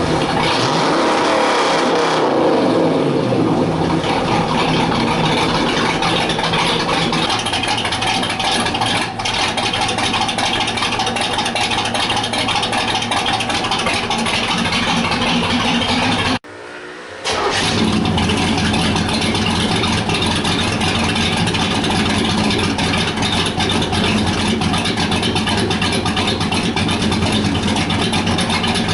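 Cammed 350 small-block Chevy V8 running loud through new short open 'boom tube' exhaust pipes. A rev falls away over the first few seconds, then the engine runs steadily, with a brief dip in sound about halfway through.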